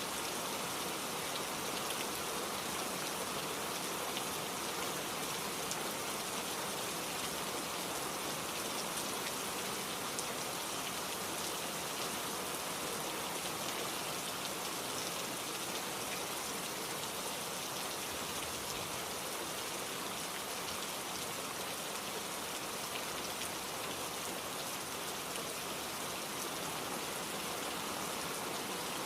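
Steady rain falling, with scattered individual drops pattering on a surface.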